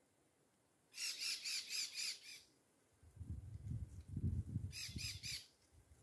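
A bird calling a quick run of harsh, high notes, about four a second: six notes about a second in and three more near the end. Low, muffled rumbling runs under the second run.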